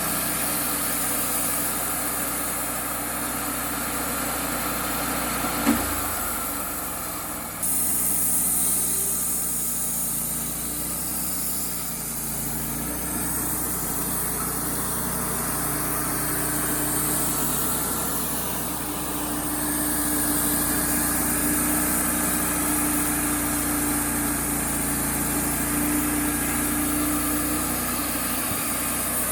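Wood-Mizer LT35HD portable band sawmill running steadily while milling an oak log, with the engine's hum and the band blade cutting. A single sharp knock comes about six seconds in, and a hissing high edge comes in suddenly a second or two later and holds.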